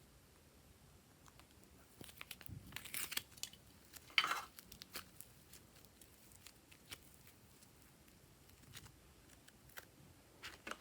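Slime being squished and stretched by hand: scattered sticky clicks and crackles, with a louder crackling burst about four seconds in.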